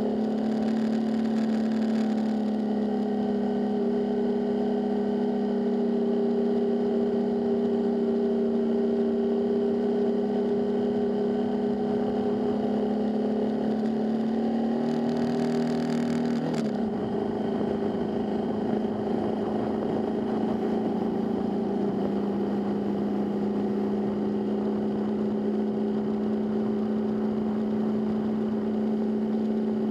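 Motorcycle engine running steadily at cruising speed, recorded on the bike. About halfway through there is a short rush of noise and the engine note dips briefly, then holds steady again.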